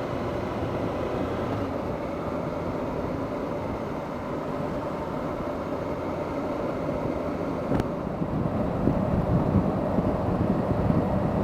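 Motorcycle on the move: steady engine and road noise, with a sharp click a little before eight seconds in, after which wind gusting on the microphone grows louder.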